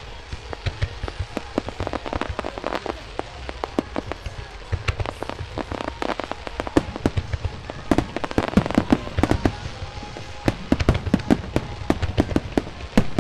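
Aerial fireworks going off in rapid, overlapping volleys of sharp bangs and pops. The bangs come thicker and louder in the second half.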